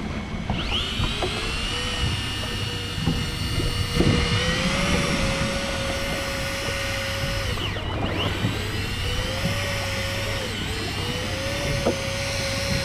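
Electric fishing reel's motor whining as it winds line in. It spins up about half a second in, slows and picks up again around eight seconds, and slows once more near the end.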